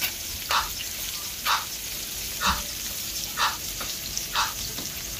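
Sliced onions and garlic sizzling in oil in a stainless steel pan: a steady soft hiss, with a short soft swish about once a second.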